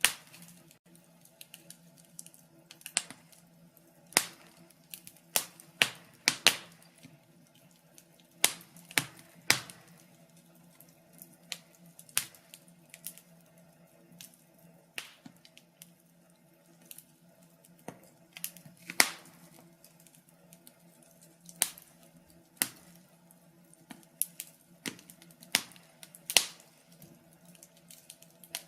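Fireplace fire crackling: irregular sharp pops and snaps, one every second or so, over a faint steady low hum.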